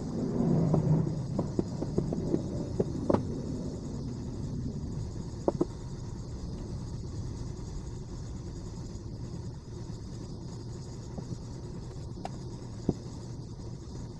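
Light clicks and knocks of small parts and tools being handled at the bench, several in quick succession at first and then a few scattered ones, over a steady low background hum.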